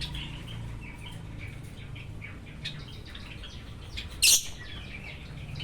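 Pet sooty-headed bulbul (kutilang) giving soft, short chirps, with a brief loud hissing burst about four seconds in.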